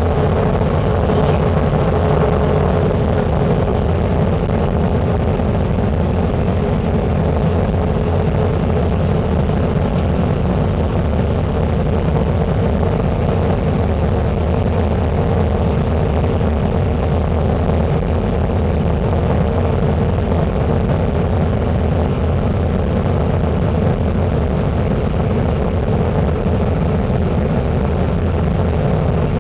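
Steady roar of an airliner's jet engines and rushing air, heard from inside the passenger cabin during landing.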